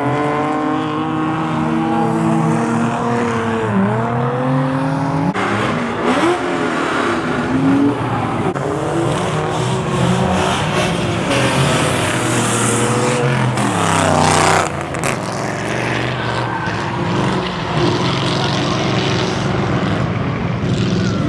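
Drifting cars: engines revving, rising and falling in pitch, with tyres squealing and skidding.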